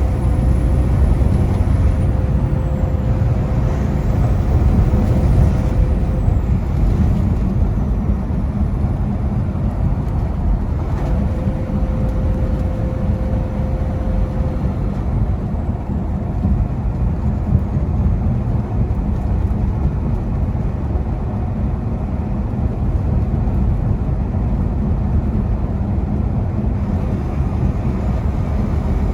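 Semi truck cruising at highway speed, heard from inside the cab: steady engine drone and road noise, with a faint steady hum that fades in and out twice.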